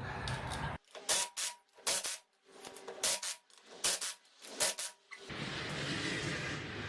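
Pneumatic impact wrench fitted with a torque stick, run on the wheel's lug nuts in about eight short, rough bursts with silent gaps between them.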